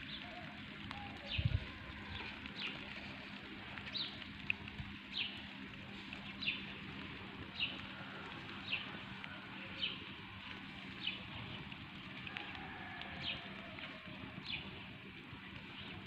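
A bird calling over and over, a short high falling chirp about once a second. Under it runs a faint steady low hum, and there is one dull thump about a second and a half in.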